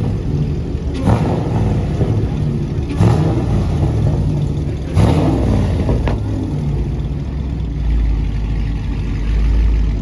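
A car engine revved in three sharp blips about two seconds apart, then a deep low rumble near the end.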